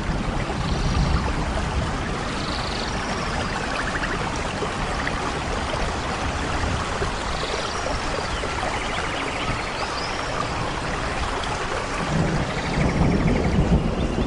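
Rainforest ambience: a steady hiss of rain and rushing water, with scattered short bird chirps and a few brief rapid trills over it. A low rumble swells near the end.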